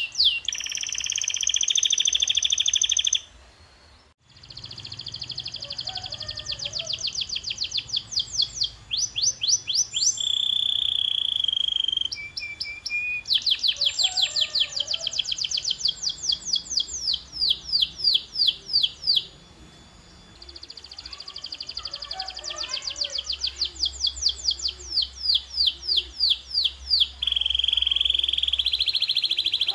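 Domestic canary singing: phrase after phrase of fast repeated trill notes alternating with held rolling tours. There is a brief sudden break about four seconds in.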